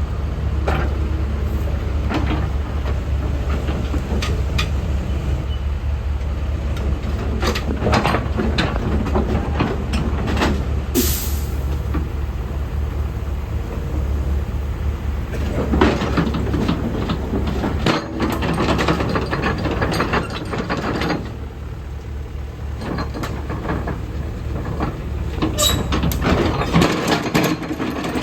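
Sany excavator's diesel engine running steadily, with scattered clanks and knocks from the machine's metal parts and a short hiss about eleven seconds in. The engine drone drops away near the end.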